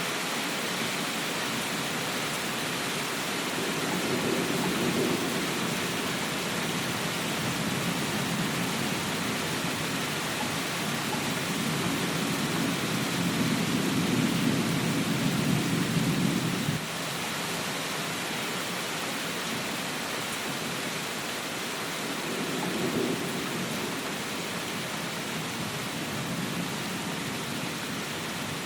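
Steady rain hiss with low rumbles of thunder swelling up three times: a short one about four seconds in, a longer, louder one from about twelve seconds that cuts off suddenly near seventeen seconds, and a short one near twenty-three seconds.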